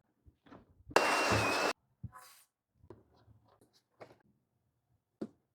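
Aerosol spray can releasing a short hissing burst of about three quarters of a second, with a faint steady whistle in it, then a brief second puff. Small clicks and knocks are scattered around the bursts.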